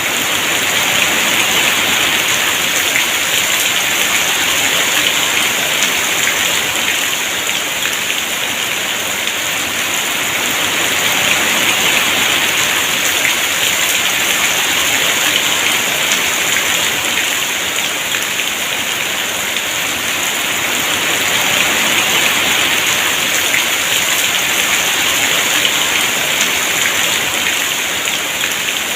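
Heavy rain falling steadily, a dense hiss of drops that swells and eases gently every several seconds.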